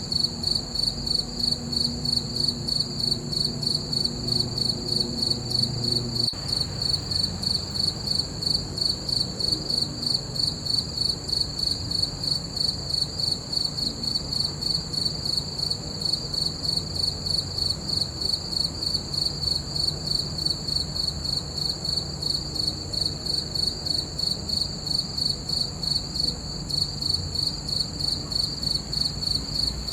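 Crickets chirping in an even, rhythmic pulse of a few chirps a second, steady throughout. A faint low hum runs underneath.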